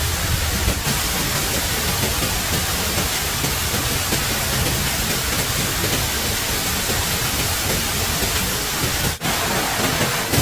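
Steady, loud rushing of water, like heavy rain or a fast stream, with a momentary break about nine seconds in.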